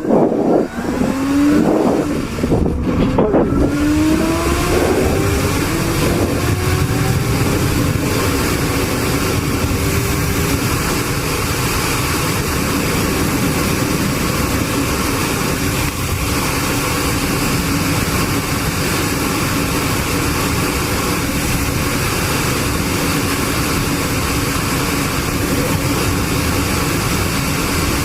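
A vehicle engine accelerating hard in the first few seconds, its pitch rising several times in a row as it runs up through the gears. It then settles into a steady engine drone under loud road and wind noise while cruising.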